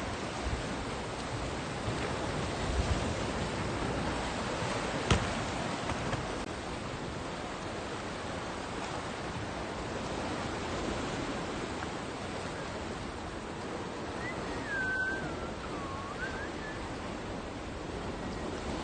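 Steady wash of sea surf on a beach. One sharp click comes about five seconds in, and a short wavering high call comes near the end.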